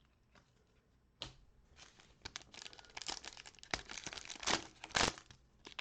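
Wrapper of a football trading-card pack being torn open and crinkled by hand, starting with a sharp rip about a second in and turning into steady crackling that gets louder toward the end.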